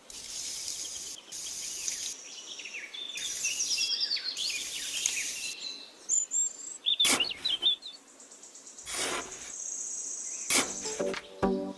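Small birds chirping over a high hiss, a quick run of short high chirps in the first half and another cluster later. Several sharp clicks or knocks sound in the second half.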